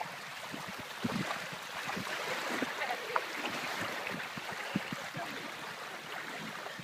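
Steady rushing and splashing of water, with a few soft, short low knocks.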